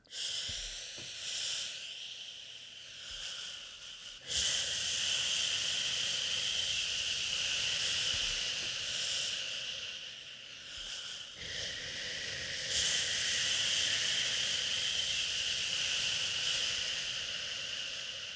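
Sustained 'shhh' shushing used to soothe a baby: a long, breathy hiss that swells and fades. It gets louder about four seconds in and dips briefly before coming back.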